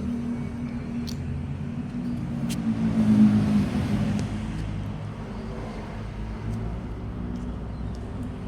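A motor vehicle's engine running close by, a steady low hum that swells to its loudest about three seconds in and then eases off, as if passing.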